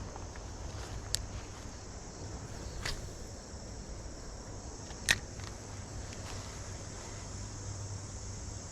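Steady high insect chirring, typical of crickets, with three short sharp clicks about one, three and five seconds in, the last the loudest.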